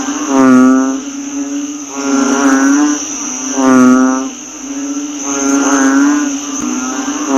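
A chorus of อึ่ง narrow-mouthed frogs. A loud drawn-out call repeats about every one and a half to two seconds, four times, over a continuous droning chorus of more frogs and a high insect hiss. This is the frog call used to lure อึ่ง.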